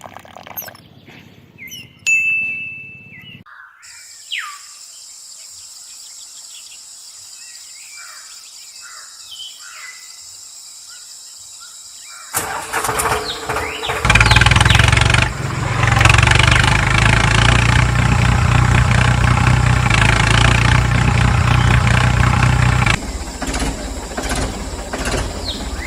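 A small motor starts about twelve seconds in and runs steadily with a low hum for about ten seconds, then drops back. Birds chirp in the first few seconds.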